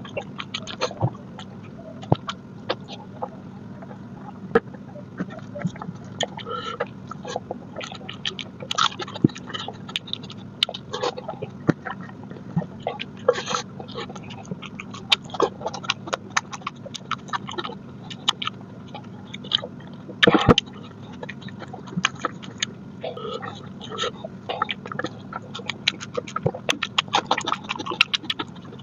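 Close-miked eating sounds of a person chewing mutton curry and rice: many short wet clicks and smacks, with one louder burst about two-thirds of the way through. A steady low hum lies underneath.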